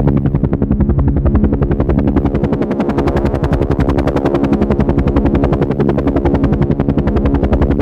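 Helicopter running steadily, its rotor blades beating fast and even over a steady engine and turbine drone.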